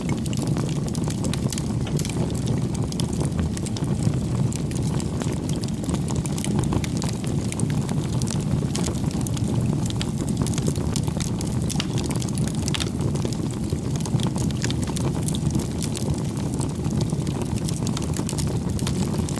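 Wood fire crackling: a steady low rush of flames with many small, irregular snaps and pops.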